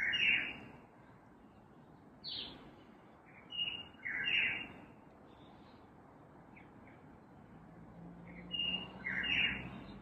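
A songbird singing short chirping phrases of high flat and down-sliding notes, in groups near the start, around four seconds in, and near the end.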